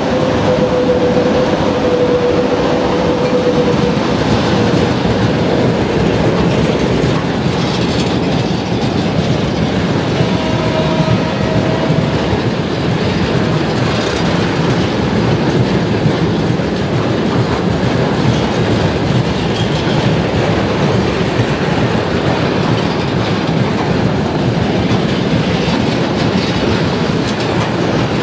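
A freight train of tank cars rolling past behind a VL80S electric locomotive, its wheels clattering steadily over the rail joints. Over the first few seconds a whine from the passing locomotive drops slightly in pitch and fades.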